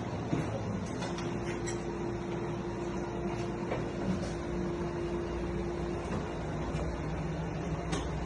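A steady mechanical hum with a few faint light clicks and knocks.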